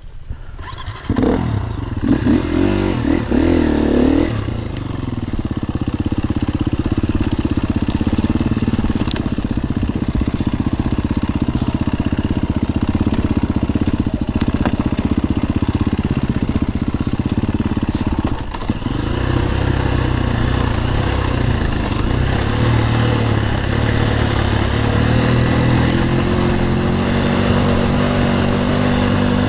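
Enduro dirt bike engine revving up about a second in, then running at a steady throttle as the bike is ridden. It drops off briefly around two-thirds of the way through, then pulls again.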